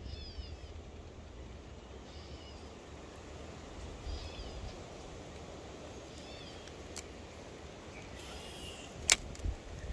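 A songbird repeats a short, falling, chirpy phrase about every two seconds over a low rumble. There is a sharp click about nine seconds in.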